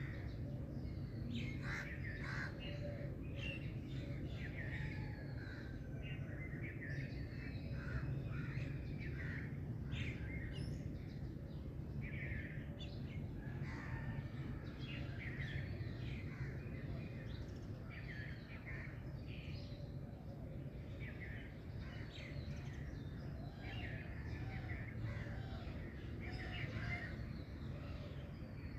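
A chorus of songbirds chirping and calling, many short chirps and trills overlapping, over a steady low background rumble.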